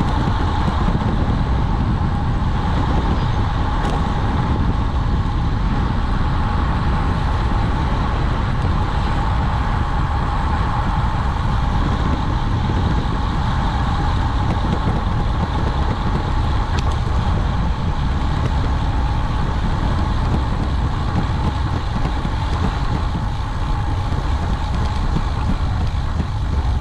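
Steady wind rush and road rumble from a fast road-bike descent, with a constant mid-pitched whine over it.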